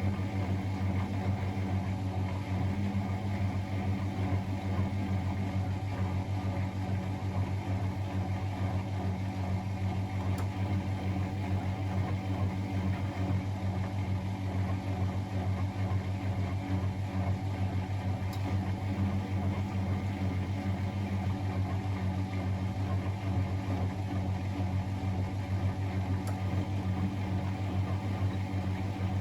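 Miele Novotronic W921 washing machine running with a steady, even hum.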